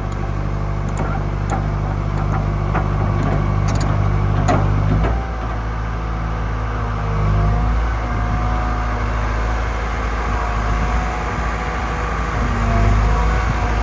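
Gradall XL3200 wheeled excavator running, its engine note dropping and rising again as the load changes. A wavering whine runs above it, with scattered clicks and knocks in the first few seconds.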